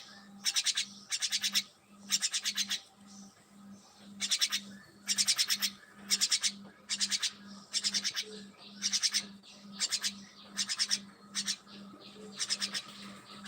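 Caged pet birds calling in short, rapid, scratchy trills, about one burst a second.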